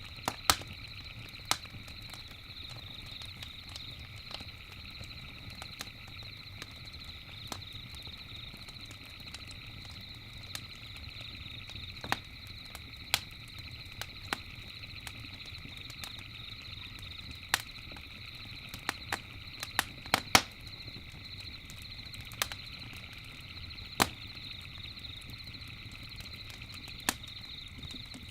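Campfire crackling, with irregular sharp pops a second or more apart and a cluster of them about twenty seconds in. Beneath the pops runs a steady high-pitched drone.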